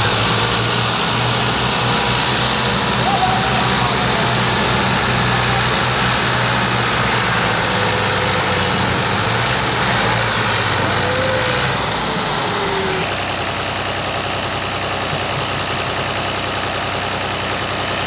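Massey Ferguson tractor's diesel engine running steadily. About thirteen seconds in, the sound changes abruptly and becomes a little quieter and duller.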